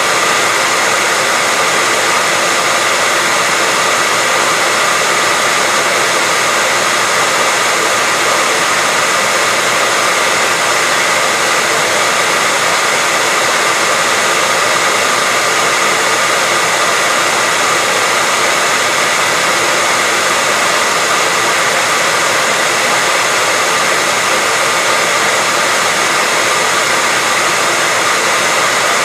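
Electric hairdryer running continuously at a steady speed, a loud, even rush of air with a faint whine from its fan motor.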